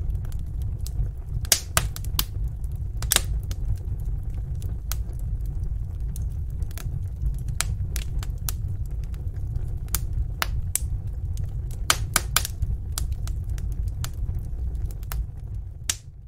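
Wood fire in a fireplace crackling, with irregular sharp pops, a few of them louder, over a steady low rumble of flame. The sound fades out near the end.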